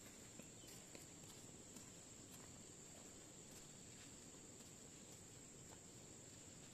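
Faint steady high-pitched trill of insects, such as crickets, with a few light ticks scattered through it.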